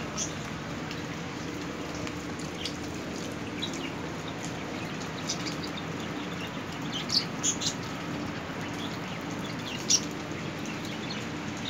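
Steady rain falling on a garden, with a few short, high chirps now and then, the loudest about seven and ten seconds in.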